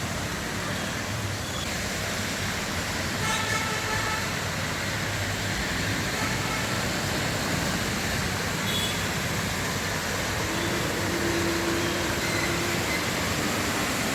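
Road traffic at a busy crossing on rain-wet roads, a steady rush of engines and tyres. Horns sound briefly about three and a half seconds in and again near nine seconds, and a longer low tone is held for about two seconds near the end.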